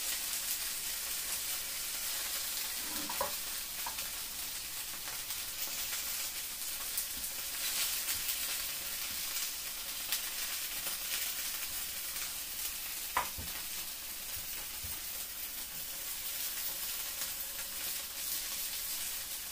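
Dumplings frying in oil in a pan, with a steady sizzle. One sharp tap comes about thirteen seconds in.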